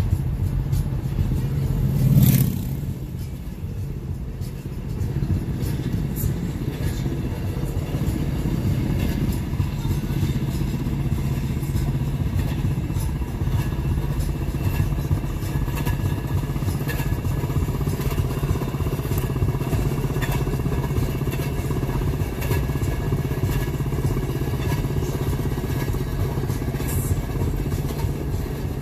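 Steady drone of running engines on the move, with a brief loud rush about two seconds in.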